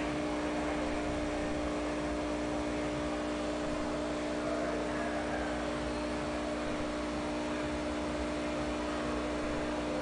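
Steady background hum with a constant hiss, holding one even level throughout.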